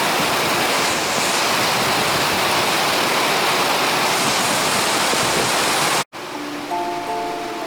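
A steady, loud rushing noise that cuts off abruptly about six seconds in. A music box then starts picking out a melody.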